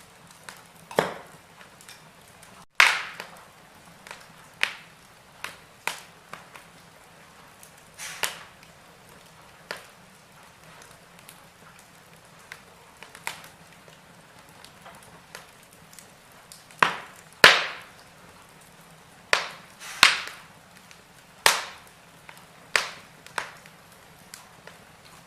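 Wood fire in a fireplace crackling: irregular sharp pops and snaps every second or two over a faint steady hiss, the loudest a few seconds in and again about two-thirds through.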